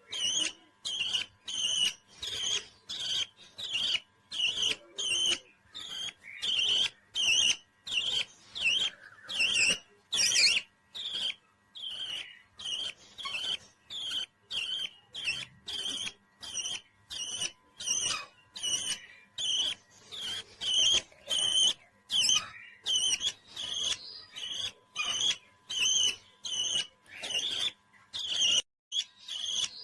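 Pet parrot chirping in a long run of short, separate high calls, about two a second with brief gaps between them.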